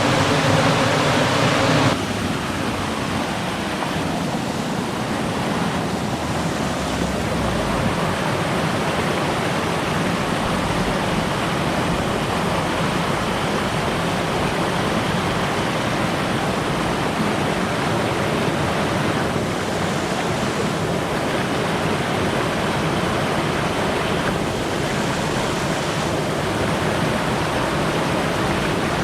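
Mountain stream water rushing steadily. The first two seconds are louder, with a low hum over the water that stops abruptly.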